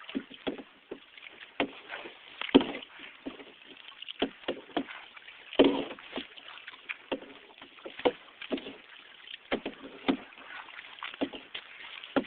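Kayak paddling: paddle strokes splashing in the water and knocking, giving irregular sharp splashes and knocks about once or twice a second over a low wash of water.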